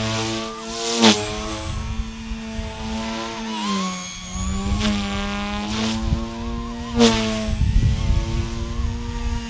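XK K130 RC helicopter's brushless motor and rotor whining steadily at high headspeed, the pitch dipping briefly about four seconds in and recovering. Two short loud bursts cut in near one second and near seven seconds.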